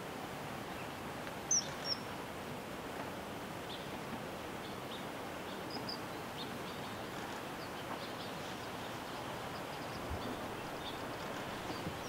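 Small birds' short, high chirps scattered faintly over a steady outdoor background hiss, with two sharper, louder high calls close together about a second and a half in.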